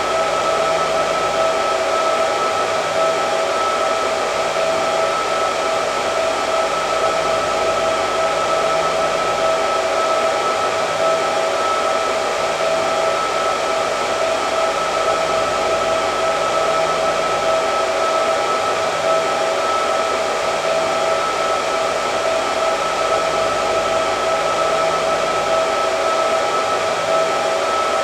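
Hair dryer running steadily: an even rush of air with a constant whine.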